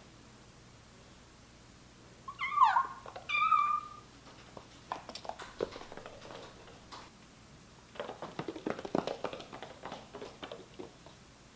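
A kitten meows twice, a falling call and then a shorter one, about two seconds in, then small paws patter in quick light taps as the kittens run and play, busiest near the end.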